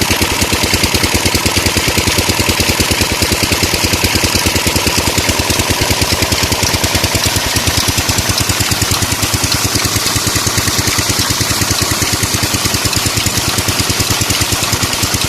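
16 hp diesel engine driving a tube-well water pump, running steadily with a fast, even knocking beat.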